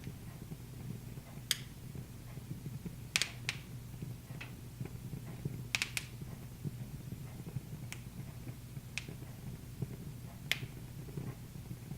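Wood fire crackling: irregular sharp pops, about ten in all, with two quick doubles a little past three seconds and near six seconds, over a steady low rumble of the burning fire.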